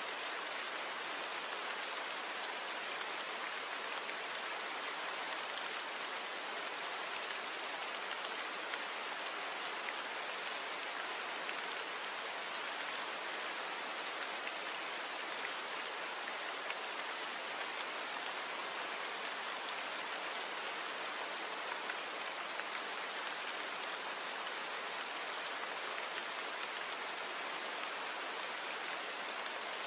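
Steady rainfall, an even hiss of drops with a few faint individual drop ticks, with little low rumble, as in a noise-reduced recording.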